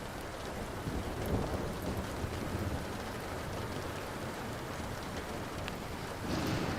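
Steady rain with thunder rumbling low, swelling about a second in and rolling away over the next few seconds, with a few sharp crackles of a wood fire and a brief louder swell near the end.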